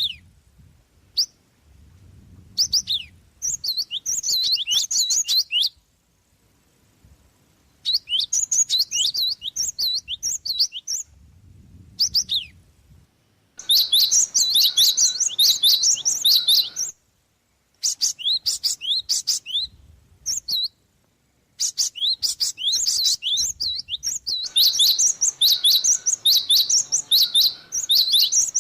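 Java sparrow (gelatik) singing: bouts of rapid, high chirping notes, each a few seconds long, broken by short pauses.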